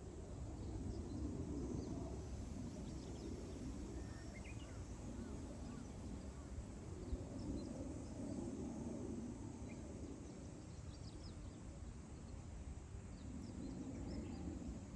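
Wind blowing across open grassland in gusts that swell and ease every few seconds, with faint, short, high chirps of small wild birds scattered through it.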